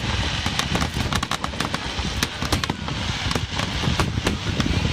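Fireworks bursting in quick succession, a dense run of bangs and crackles several to a second.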